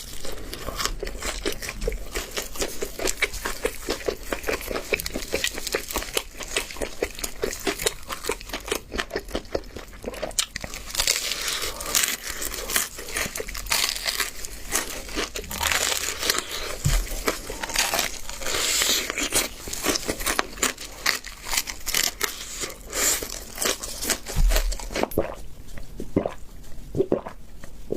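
Close-miked crunching and chewing of crispy, flour-coated double-fried chicken drumsticks, with the crust crackling in quick, irregular crunches and the meat tearing. The crunching thins out near the end.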